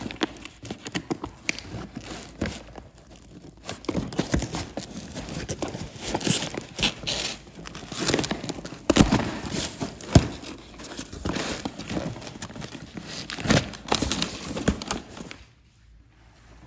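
A cardboard parcel being cut and torn open by hand: irregular crinkling, tearing and knocks of packaging, stopping shortly before the end.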